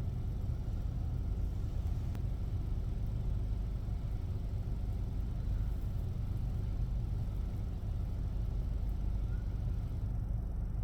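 Automatic car wash machinery running during the wash cycle: a steady low rumble.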